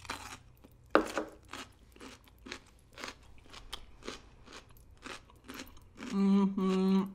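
Crunchy chewing of a whole young radish (chonggak) kimchi bitten off by hand: a loud crisp crunch about a second in, then crunches roughly twice a second as it is chewed. Near the end come a few loud hummed "mmm"s.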